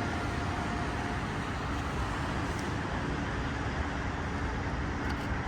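Steady street traffic noise: a low, even wash of cars on the road below, with no single vehicle standing out.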